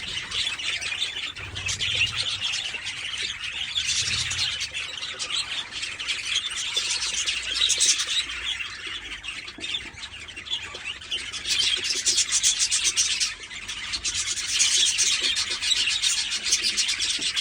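Budgerigar chicks chirping continuously in rapid, raspy high-pitched calls that swell and fade in bouts. Two soft low bumps come near the start.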